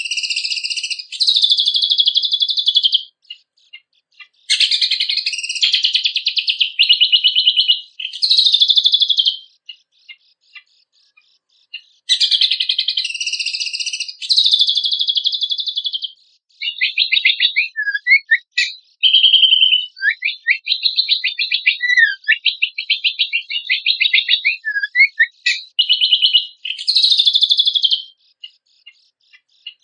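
Cucak kombok (kecial kombok) songbird singing a loud, rich, fast-paced song in bursts of a few seconds with short pauses between. About halfway through the song changes to a run of quick chipping notes mixed with short falling whistles.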